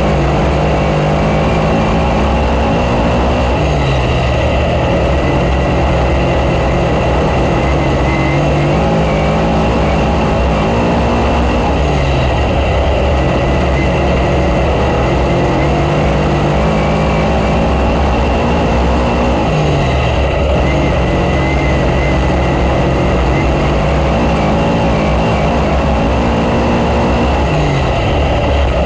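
Dirt-track race car engine running hard at racing speed, rising in pitch and dropping back about every eight seconds as the car goes on and off the throttle around the oval.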